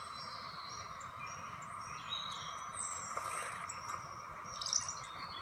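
Small birds chirping and whistling faintly in a bird video playing through a screen's speaker, over a steady hiss.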